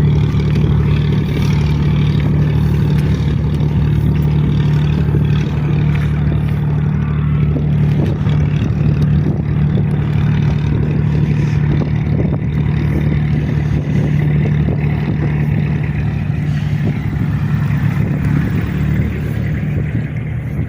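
An engine running at a steady speed, with a constant low drone.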